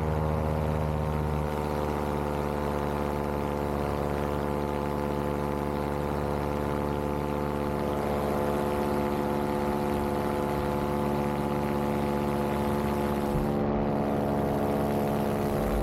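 Vittorazi Moster 185 single-cylinder two-stroke paramotor engine and propeller running steadily in flight, a constant buzzing drone whose pitch eases slightly lower over the first few seconds.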